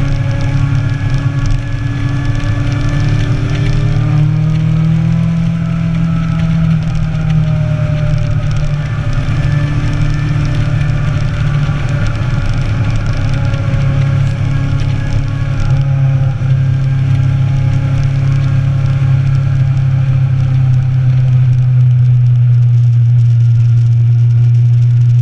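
Motorcycle engine running at a steady cruise, heard from on the bike with wind and road noise. Its pitch rises slightly a few seconds in, then holds.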